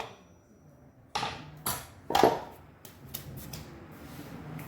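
A few sharp metallic knocks and clinks from tools and engine parts being handled, then lighter ticking.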